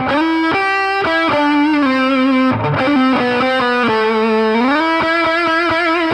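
Electric guitar played through a Mesa Boogie 5:25 Express 1x10 combo amp, a single-note melody line that steps from note to note several times a second, with a slide up in pitch about four and a half seconds in.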